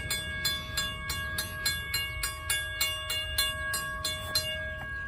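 Railroad grade-crossing warning bell ringing at about three strikes a second, set off by a train engine, with the strikes stopping near the end as the ringing tone lingers.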